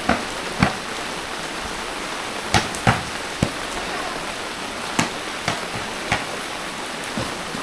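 Steady rain falling, with about eight sharp taps scattered irregularly through it.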